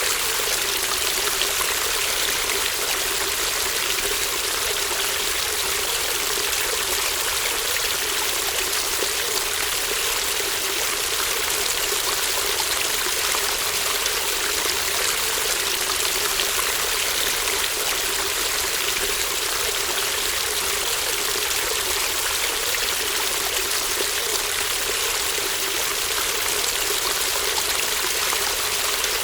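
A shallow brook babbling steadily, an even rush of running water with no breaks or changes.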